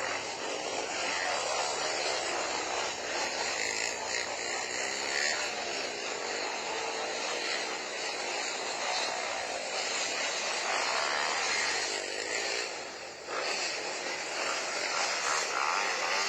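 Motorcycle engines running and revving, their pitch rising and falling in a dense, steady din that dips briefly about thirteen seconds in.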